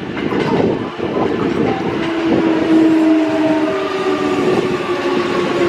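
Kintetsu electric train moving through the station with a dense running rumble. About two seconds in, a steady tone at several pitches sets in over the rumble and holds.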